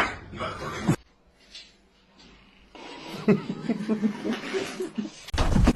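A person laughing softly in short broken chuckles, after a brief pause. Near the end a sudden loud, low burst cuts in.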